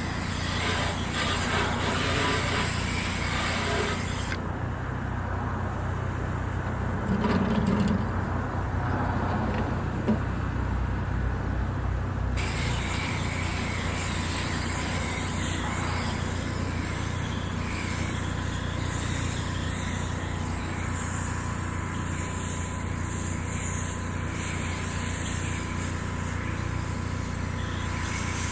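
An engine running steadily: a constant low drone with a few fixed tones above it.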